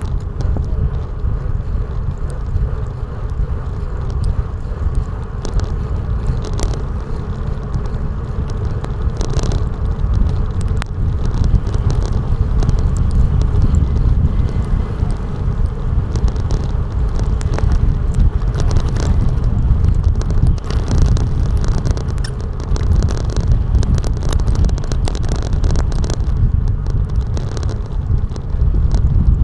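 Wind buffeting a DJI Action 2 camera's microphone while riding, a steady loud rush with road noise underneath, getting a little louder about ten seconds in.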